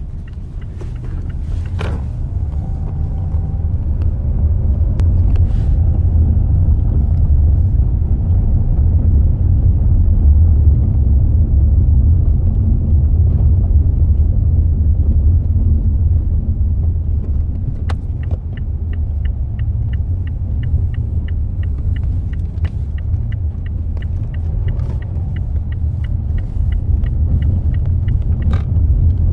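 Mazda 6 front suspension making occasional sharp knocks over a steady low rumble, the sign of a faulty front strut bearing. From about two-thirds of the way in, a regular ticking runs at about three a second.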